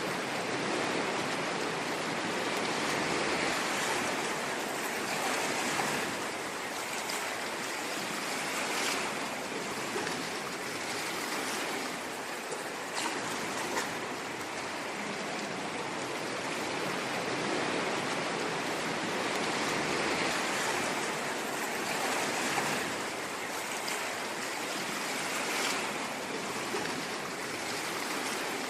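Ocean waves washing on a shore: a steady rushing hiss that swells and eases every few seconds.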